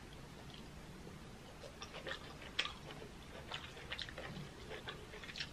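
A person chewing crab meat: scattered soft wet mouth smacks and small clicks, starting about a second and a half in.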